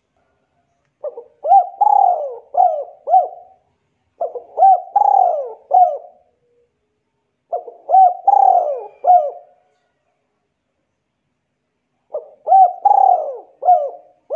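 A bird calling in four similar phrases of several quick notes each, rising and falling in pitch, a couple of seconds apart.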